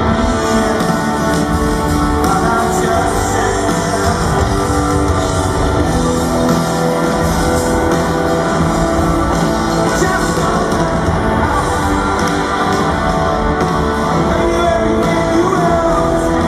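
Rock band playing live, with electric guitars, bass, drums and a lead vocal singing.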